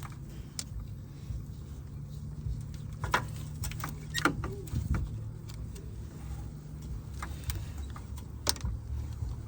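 Scattered light clicks and metal clinks from hands and tools working in an engine bay while a serpentine belt is worked onto its pulleys, over a steady low hum, with a brief grunt-like vocal sound a little after four seconds in.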